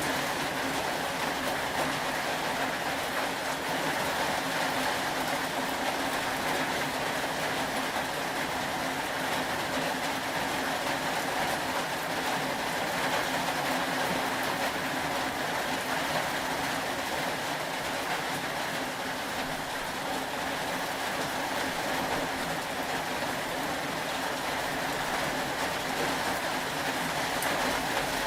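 Steady rain falling, an even, unbroken hiss that neither swells nor stops.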